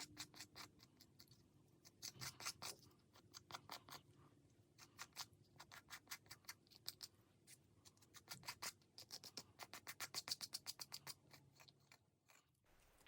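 Faint quick taps and scratches of a paint-coated stamp being dabbed and pressed onto a painting panel, in irregular runs that grow quickest, about five taps a second, near the end.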